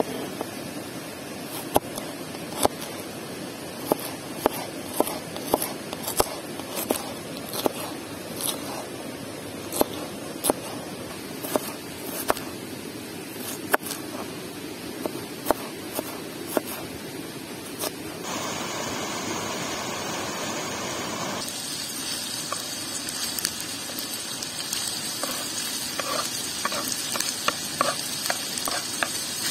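Pieces of kidney frying in a pan over an open fire: a steady sizzle with sharp crackles and ticks about once a second. About two-thirds of the way through, the sizzle turns suddenly to a brighter, higher hiss.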